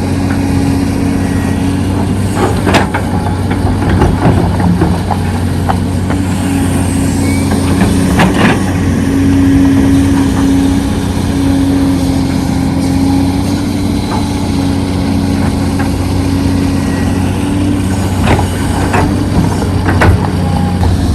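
Diesel engines of heavy earthmoving machinery, excavator and dump truck, running with a steady low drone, with several sharp knocks scattered through it.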